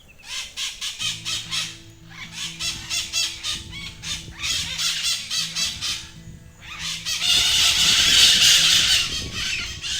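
A flock of birds calling: rapid chattering squawks, about five a second, that swell into a loud dense clamour around seven seconds in.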